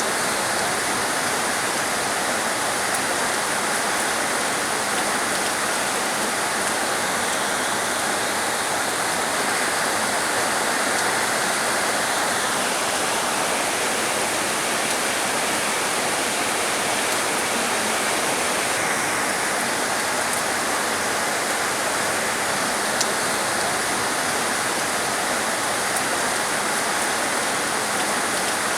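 Heavy rain pouring steadily, an even dense hiss; the higher part of the hiss eases for several seconds in the middle, then returns.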